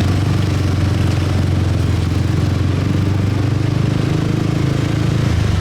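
Motorcycle engine running steadily while riding in city traffic, with a continuous hum and road and wind noise.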